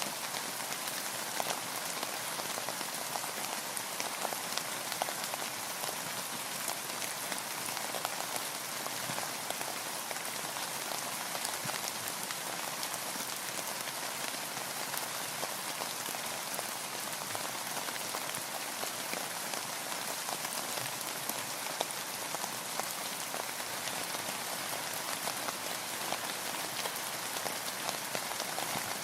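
Steady rain falling on a boat, a dense even patter of drops with no let-up.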